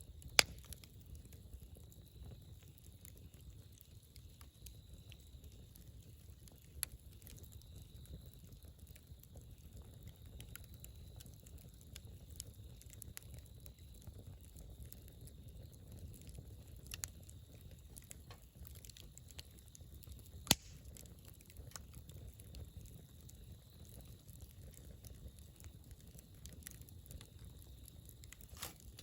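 Wood campfire burning: a low steady rumble of flames with scattered crackles and sharp pops, the loudest pops about half a second in and about twenty seconds in.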